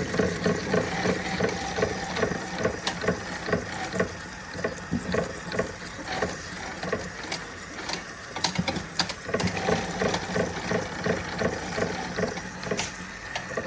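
Empire B42 twin-cylinder model steam engine running at a steady beat of about three strokes a second, with light mechanical clicking from the belt-driven toy mechanisms. The beat slows and turns uneven about four seconds in, then picks up regular again near the end, as the engine takes up the drag of the toys.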